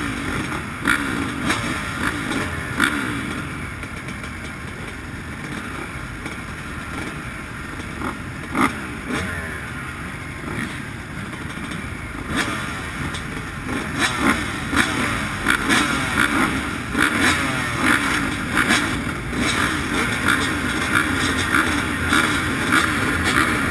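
Motocross bike engine revving up and down, with frequent knocks and rattles. It runs quieter for a stretch, then louder and choppier from about halfway through.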